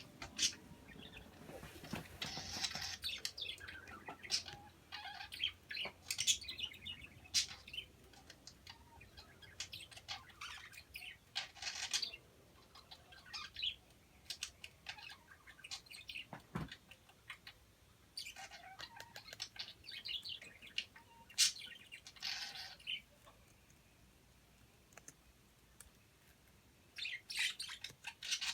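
Pet budgerigars chirping in short, scattered bursts of high chirps, mixed with a few sharp clicks. There is a quieter stretch late on, then a quick cluster of chirps near the end.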